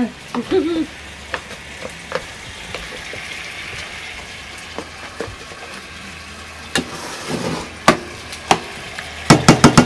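Beans sizzling in a pot on a wood stove, with a spoon clinking and scraping against the pot as they are stirred. Near the end comes a fast, loud rattle of clicks, about nine a second.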